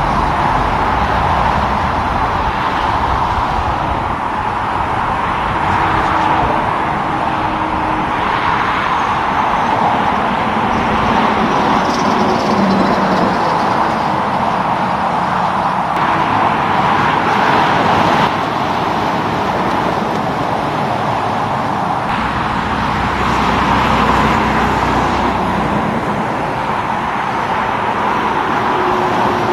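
Road traffic: steady tyre and engine noise from passing cars and heavy trucks, swelling a few times as vehicles go by.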